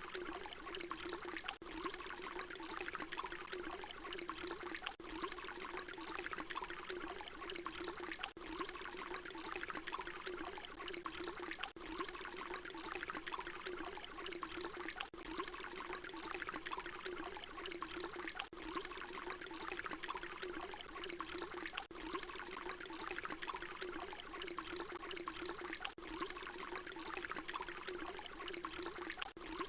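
Water pouring in a steady continuous stream, a short recording looped, with a brief dip about every three and a half seconds.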